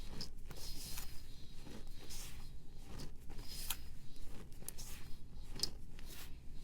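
A pressed powder block being worked by hand: a run of short, dry scraping and crunching strokes at an uneven pace, about one or two a second, with a few sharper crackles.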